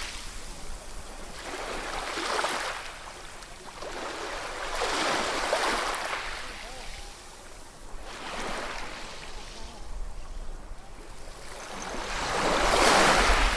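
Sea waves breaking and washing on the shore in slow surges of surf, about four swells in all, the biggest and loudest one building near the end.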